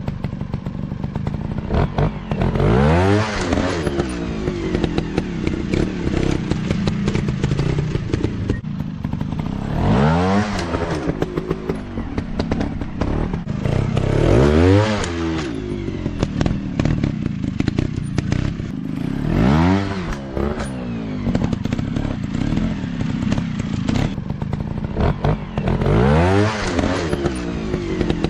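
Off-road dirt bike engines running, the pitch rising and falling about five times as they rev and ease off. Clattering and knocking go on throughout.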